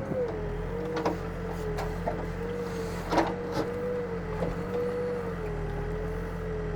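Backhoe's diesel engine running, with a steady hydraulic whine that wavers slightly in pitch. A few short knocks come through as the bucket digs, the loudest about three seconds in.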